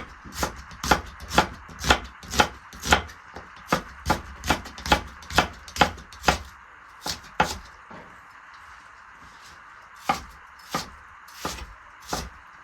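Knife chopping on a cutting board in steady strokes of about two a second, each a sharp knock. The chopping stops briefly, gives two more strokes, then resumes with a few more strokes near the end.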